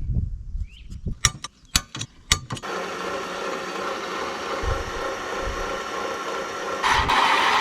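A few sharp clicks, then an electric drill starts and runs steadily, drilling a 7/16-inch hole for the bolts of a puller made from a hole saw. It gets louder about seven seconds in.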